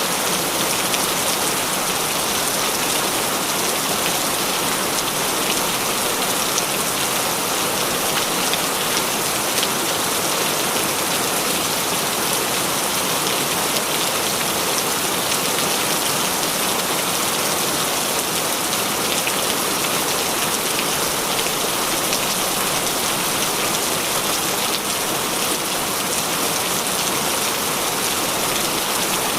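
Heavy rain falling steadily: a dense, even hiss of many drops, with no change in strength.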